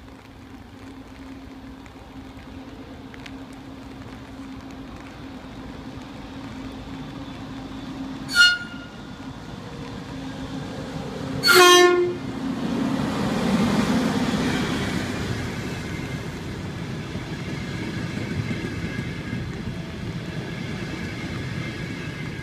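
ETR 500 Frecciarossa high-speed train running slowly through the station, sounding its horn twice: a short toot about eight seconds in, then a longer, louder blast a few seconds later. The train then passes close by, its carriages' wheel and rail noise swelling into a steady rush.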